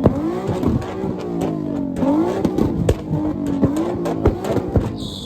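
Car engine revving repeatedly against a two-step launch-control limiter, the pitch rising and falling in quick blips, with many sharp pops and bangs from the exhaust. A brief high screech comes near the end.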